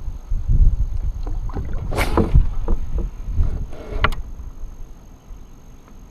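Knocks and rustling from gear being handled in a kayak, over low rumble from wind on the microphone, with a louder sharp noise about two seconds in and another about four seconds in.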